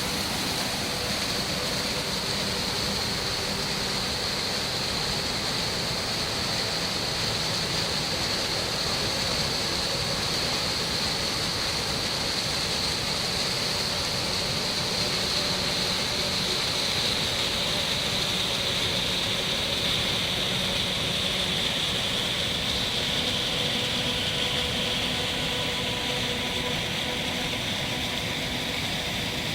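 The Putna waterfall: water pouring and rushing steadily, an unbroken wash of noise.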